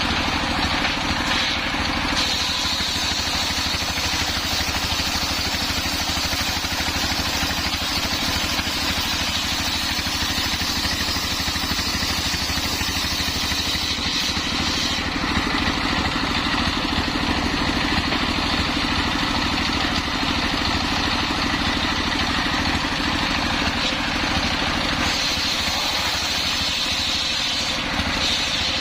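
Engine-driven homemade circular saw running steadily while sawing a coconut-palm trunk, the engine at an even level with a high whine from the blade that rises about two seconds in, drops away around the middle and comes back near the end.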